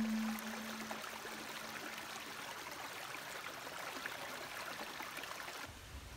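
Water running in a stream: a steady, even rushing hiss with small splashy ticks. A held note of background music fades out in the first second.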